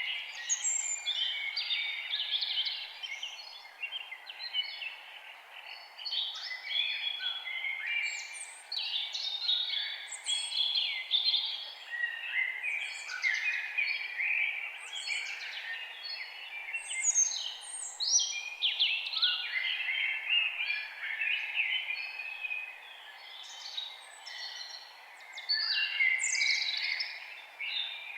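Many forest birds singing and chirping at once in a dense, unbroken chorus of quick notes, many of them sweeping downward, over a steady faint background hiss.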